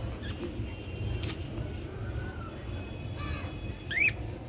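Budgerigars calling: a few short chirps, a harsh squawk about three seconds in, then a quick rising chirp near the end, over a low steady rumble.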